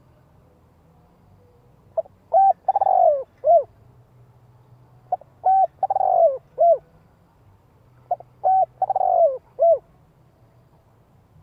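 Spotted dove cooing: three phrases about three seconds apart, each a couple of short coos, then a longer falling coo and a final short note.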